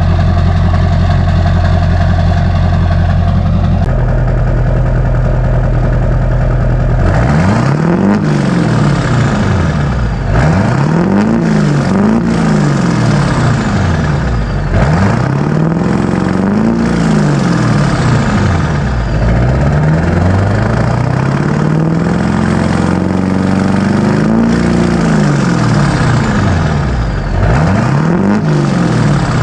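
Straight-piped exhaust of a 2001 GMC Sierra 3500's LB7 Duramax V8 turbodiesel, with no muffler, idling steadily and then revved again and again from about seven seconds in, each rev rising and falling in pitch. A thin high whistle falls in pitch after several of the revs.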